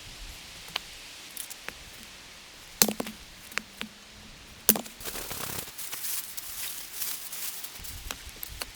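A few sharp clicks, then two louder knocks, followed by a run of fast, dense crackling and snapping.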